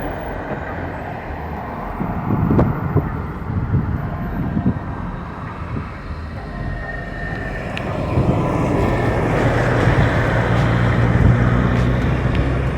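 Car driving along a road, a steady engine hum with tyre and road noise, getting louder about eight seconds in.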